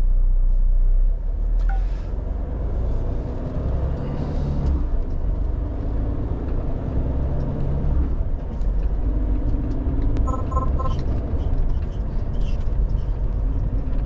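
Renault T480 lorry's diesel engine running at low speed, heard from inside the cab as a steady low rumble whose pitch shifts several times. A short run of quick electronic beeps sounds a little after ten seconds in.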